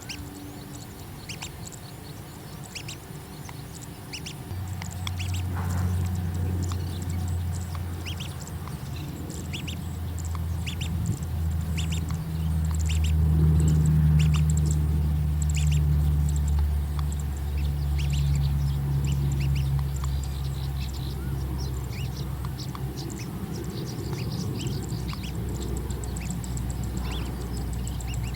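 Short, high bird chirps repeated irregularly, over a low steady hum that comes in about four seconds in and is loudest near the middle.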